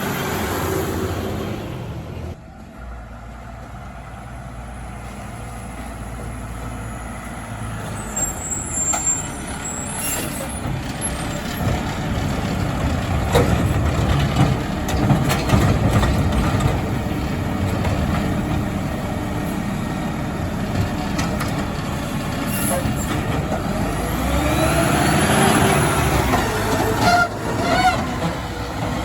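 Mack LR garbage truck's diesel engine running, with an air brake hiss in the first two seconds that cuts off abruptly. Later the engine revs up and down.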